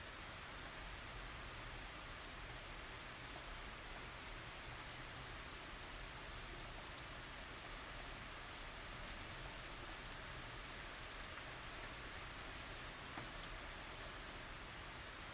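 Steady light rain falling: an even, soft hiss dotted with many small ticks of individual drops, with no thunder.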